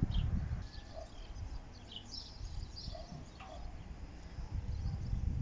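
Birds chirping in short, scattered calls, over a low rumble that is loudest at the start and again near the end.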